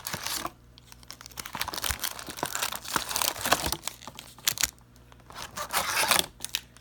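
Foil trading-card packs and their packaging crinkling and rustling as they are pulled out of a cardboard hobby box, in irregular bursts with sharp clicks and taps and a short lull near the end.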